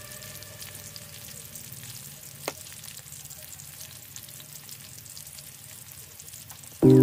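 Sliced onions and green chillies frying in hot oil in a kadai: a steady sizzle, with a single sharp click about two and a half seconds in. Loud background music comes in just before the end.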